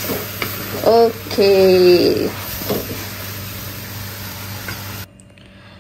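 Fermented cassava shoots with buah kepayang frying in a pan, nearly dry: a steady sizzle with a few spatula clicks as it is stirred, cutting off abruptly about five seconds in.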